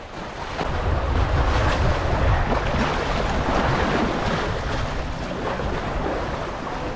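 River waves washing against shoreline rocks, with wind buffeting the microphone in a low rumble that builds about half a second in.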